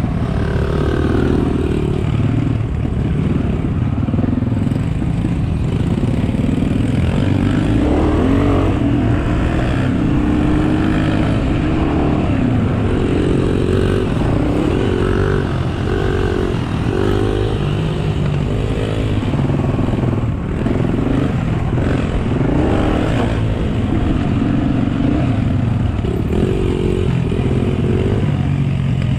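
Small single-cylinder pit bike engines running, their pitch repeatedly rising and falling as the throttle is blipped and eased.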